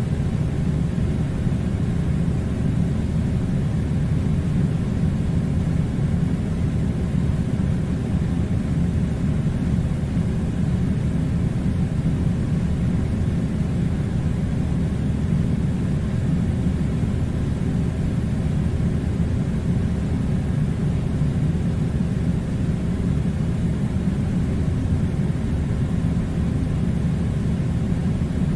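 Air conditioner running: a steady low rumble with a faint steady hum and no changes.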